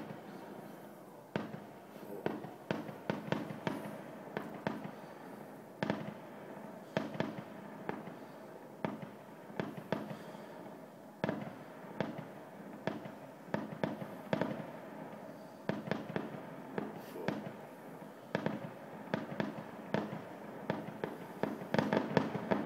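Fireworks display: aerial shells bursting in a long irregular string of sharp bangs, sometimes several a second, each trailing a short echo.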